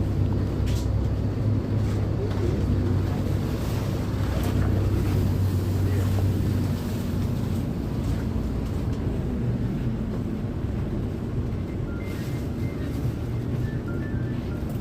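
A bus's diesel engine running with a steady low rumble and hum, a little quieter about seven seconds in.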